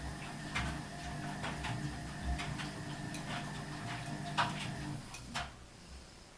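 Ardo washing machine running with a steady hum that cuts off about five seconds in, amid irregular clicks and knocks, two of them louder near the end.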